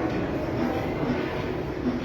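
A Mexico City Metro train running: a steady rolling rumble with a faint hum.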